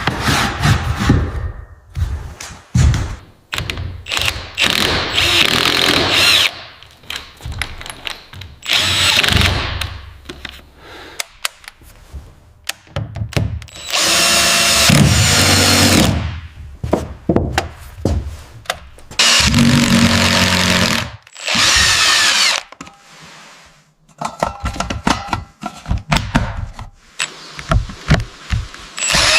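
Power drill running in repeated bursts of one to two and a half seconds, with knocks and clatter between them.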